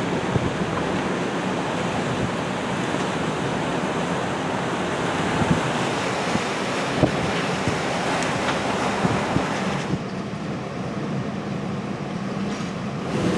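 Tropical-storm wind and surf: a steady rush of noise, with gusts buffeting the microphone and the occasional knock. It turns duller about ten seconds in.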